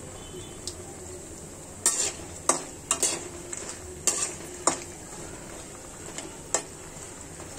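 Dough snacks deep-frying in hot oil with a steady sizzle, while a metal utensil clinks sharply against the pan several times in quick succession about two to five seconds in, and once more near the end.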